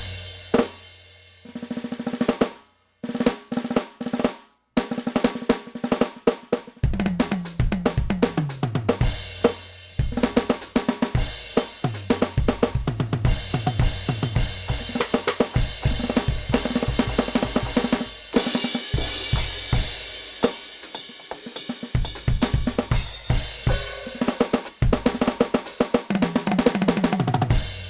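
NUX DM8 electronic drum kit played through its sound module: grooves and fills across snare, bass drum, hi-hat, cymbals and toms. The tom hits drop in pitch as they ring, and the playing breaks off twice for a moment a few seconds in.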